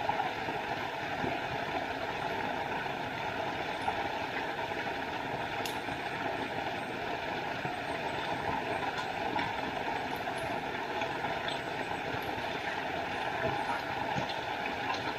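Small forest waterfall: a steady rush of falling water.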